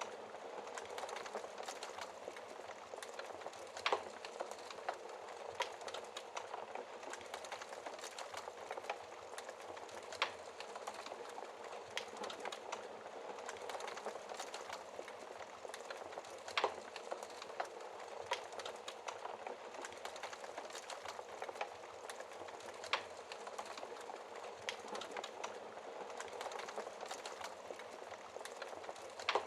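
Fireplace fire crackling steadily: a dense patter of small crackles over a soft hiss, with a sharper pop about every six seconds.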